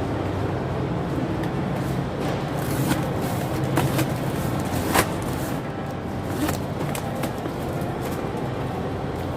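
Steady low mechanical hum with scattered clicks and knocks, one sharper click about five seconds in.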